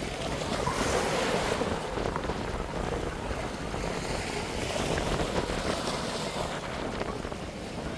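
Sea waves breaking and washing up a sandy beach, the surf swelling twice, with wind rumbling on the microphone.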